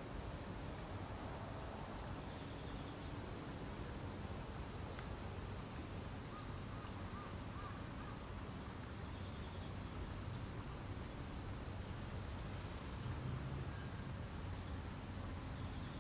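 Steady outdoor background noise with short, high chirping trills that repeat every second or two, and a brief lower chirping call about seven seconds in.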